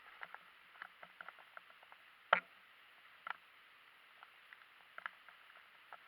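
Irregular light clicks and ticks over a faint steady hiss, with one sharper, louder click a little after two seconds in.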